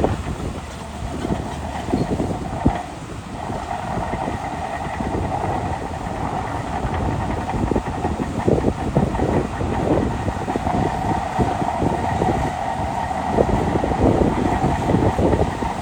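Shantui DH17C2 Pro crawler bulldozer working, with the rapid irregular clanking and rattling of its steel tracks over a steady engine drone.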